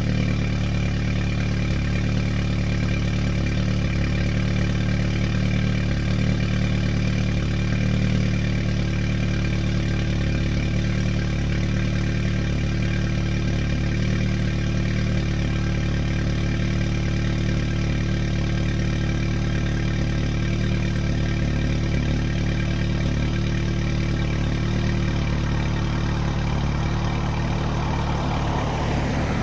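2015 Audi S3's turbocharged 2.0-litre four-cylinder idling steadily while still warming up from a cold start, its exhaust running through a catted aftermarket downpipe with the stock resonator and muffler.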